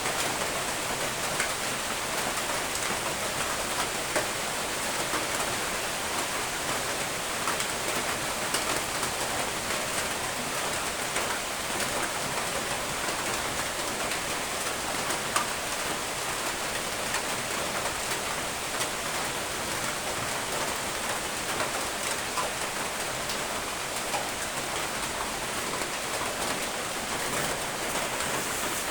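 Steady rain falling on a surface, a dense even hiss dotted with small drop ticks.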